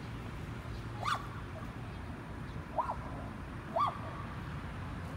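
A bird calls three times: short notes that rise and fall, spaced unevenly over a few seconds, above a steady low background hum.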